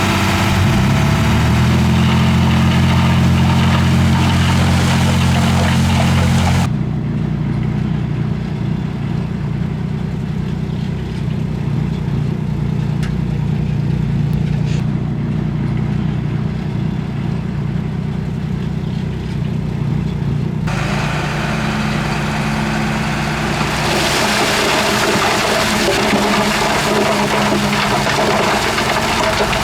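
Heavy diesel earthmoving machinery, a crawler bulldozer working with a dump truck, running steadily under load. The sound changes abruptly twice: the hissy upper noise drops out about a quarter of the way in, leaving a deeper engine drone, and comes back about two-thirds through.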